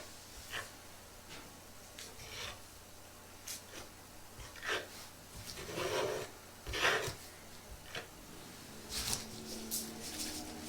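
Irregular rubbing and scraping strokes from objects being handled close to the microphone, a dozen or so short scrapes spaced unevenly about a second apart.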